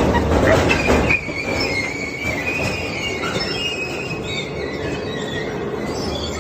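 Industrial metal shredder grinding and tearing scrap metal, with high metallic squealing. It is louder and crunching for about the first second, then settles to a steadier grind.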